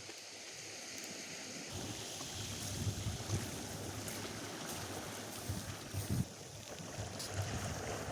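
Atlantic surf washing onto a sandy beach, with wind blowing across the microphone; a low rumble of wind on the microphone comes in about two seconds in.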